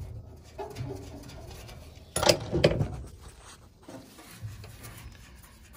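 Handling noises from work on the furnace: scattered light knocks and scraping, with a louder clatter of a few knocks about two seconds in.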